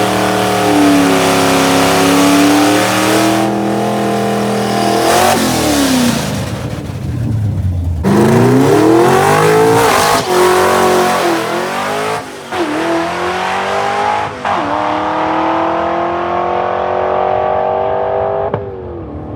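Fox-body Mustang 5.0 V8 drag car, with 2-1/2-inch bullet mufflers dumped behind the door, running hard down the strip under full throttle. Its pitch climbs and then drops again at each gear change of its manual five-speed, several times over, and the engine note cuts off near the end.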